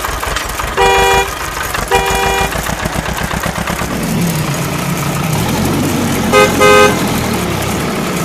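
A vehicle horn honking twice, about half a second each, then two short toots in quick succession about six and a half seconds in, over a steady engine-like rumble that grows from about halfway through.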